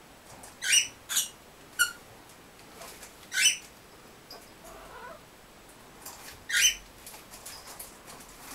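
Pet gray birds giving short, sharp rising calls, about five or six spaced irregularly.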